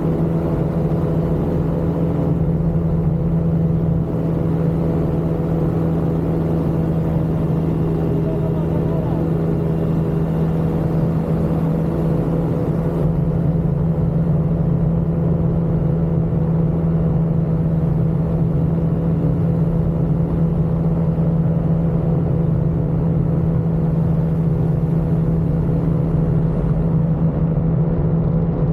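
Ultralight aircraft engine and propeller running steadily at constant power: a loud, even, droning hum.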